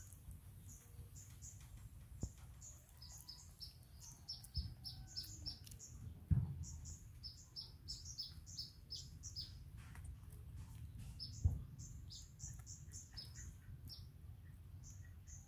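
Small birds chirping: rapid, short, high notes that each drop in pitch, repeated over and over. A few dull thumps come through, the loudest about six seconds in and near eleven and a half seconds.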